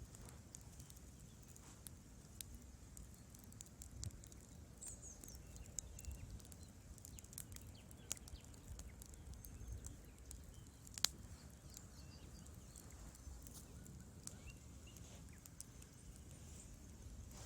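Wood fire in a fireplace crackling: irregular sharp pops and snaps over a low, steady rumble of burning, with one louder pop about eleven seconds in.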